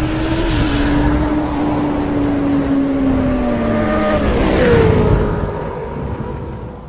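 Motorcycle engine sound effect: a steady engine note that sags about four seconds in, then jumps to a higher pitch and fades away near the end.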